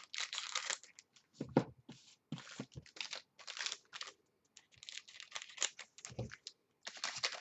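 Crinkly card-pack wrappers and cards being torn and handled in a run of short crackling rustles, with a couple of soft knocks, about a second and a half in and again around six seconds.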